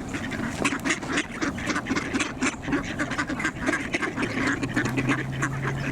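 A flock of ducks quacking continuously, many short overlapping calls. A low steady hum joins about three-quarters of the way through.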